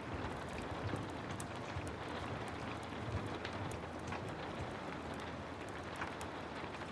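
Heavy rain falling steadily, an even hiss with scattered sharp ticks and low thuds throughout.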